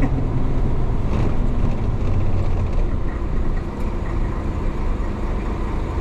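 The DA640 diesel engine of a 1966 Isuzu BXD30 bonnet bus running as the bus drives, a steady low drone whose pitch drops slightly about half a second in.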